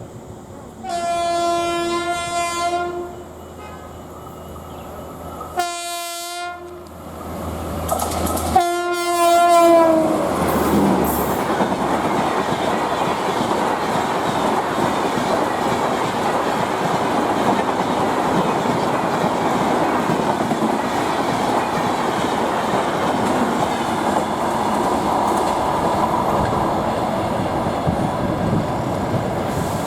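A WAP5 electric locomotive's horn sounds three times: a long blast, a short one, then another long blast that drops in pitch as the locomotive passes. It is followed by the Duronto Express's coaches rolling past at speed, a steady rush of wheels on rails with a clickety-clack.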